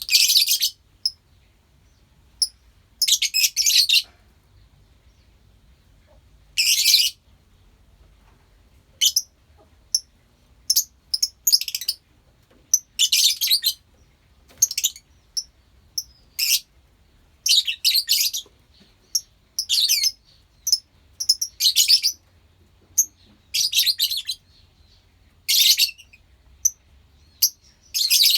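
Lovebirds in a colony chirping: short bursts of high-pitched chatter every second or two, with quiet gaps between.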